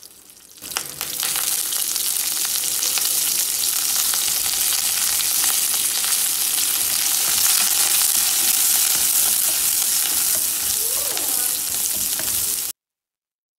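Sliced onion, curry leaves and green chilli sizzling in hot oil with mustard seeds in a nonstick kadai, stirred with a wooden spatula. The sizzle starts about a second in and cuts off suddenly near the end.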